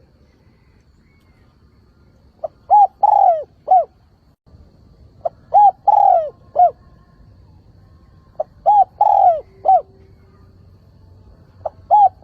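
Spotted dove (cu gáy) decoy bird cooing its call phrase four times, about every three seconds: a short note, two quick coos, a longer drawn-out coo and a final coo. It is the call used to draw in and provoke wild male doves.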